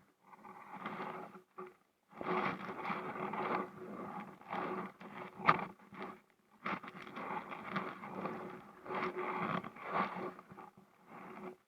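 Kayak paddle strokes in the water: repeated splashing and dripping, one burst every second or two, with a sharp splash about halfway through.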